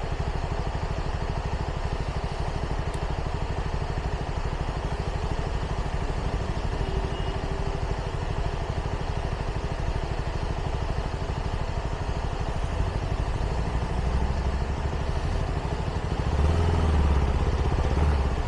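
CFMoto 300NK's single-cylinder engine running steadily through its stock exhaust, heard from the rider's helmet. A louder, deeper rumble builds over the last few seconds.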